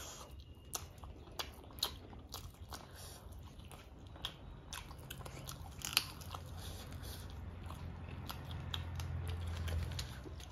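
Close-miked eating sounds of two people biting and chewing fried chicken: wet chewing with scattered sharp crunches and mouth clicks, one standing out about six seconds in. A low hum runs underneath and swells near the end.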